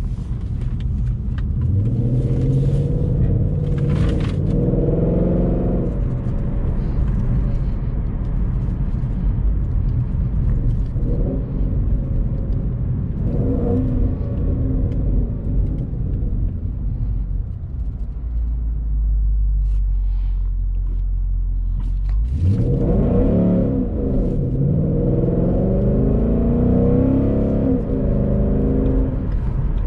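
Ford Mustang GT's 5.0-litre V8 engine heard from inside the cabin: it pulls up through the revs in the first few seconds, runs quieter while cruising, sits at a low steady idle, then accelerates hard again about 22 seconds in with the pitch climbing through the gears.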